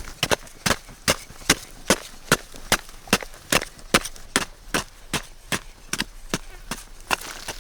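Steady, rapid chopping into wood with a blade, about two to three sharp strikes a second at an even pace.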